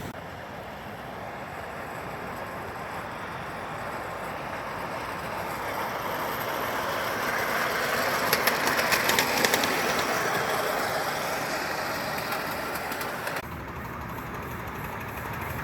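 A miniature park-railway train running along its track, with a steady rumble and rush of noise. The noise swells to a peak with a rapid clatter of clicks from the wheels and rails, then drops abruptly near the end.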